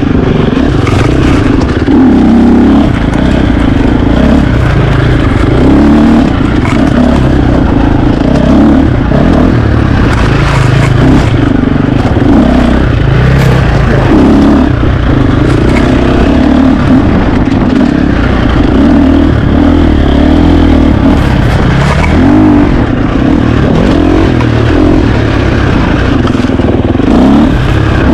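KTM 350 XC-F single-cylinder four-stroke dirt bike engine under constant throttle changes, its pitch rising and falling again and again, with scattered knocks and rattles.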